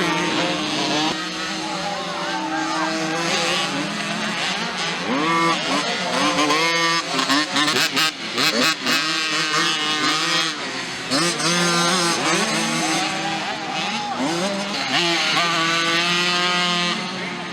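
Several small mini motocross bikes running together, their engines revving up and falling back as they ride, with a cluster of short sharp cracks about seven to nine seconds in.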